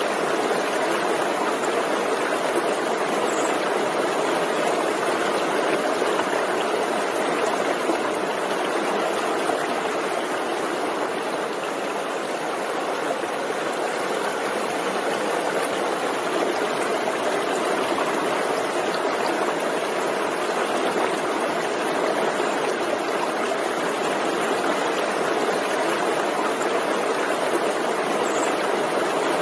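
Forest stream flowing over stones, a steady rushing and burbling of water.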